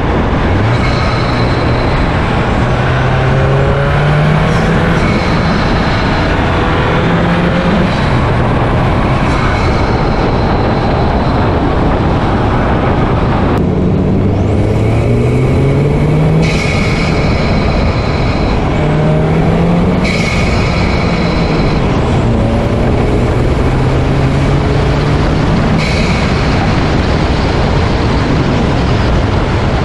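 Volkswagen Golf 8 GTI's turbocharged 2.0-litre four-cylinder breathing through an Armaspeed carbon-fibre cold air intake, running loud. The engine note climbs and drops back again and again, a few seconds each time.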